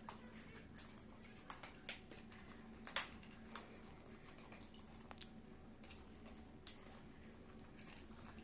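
Near silence: room tone with a low steady hum and a handful of faint, sharp clicks, the loudest about three seconds in.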